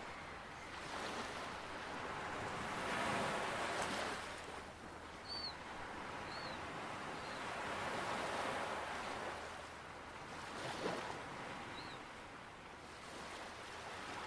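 Ocean surf washing in and out, swelling and fading every few seconds. A few short, high calls sound over it in the middle of the stretch.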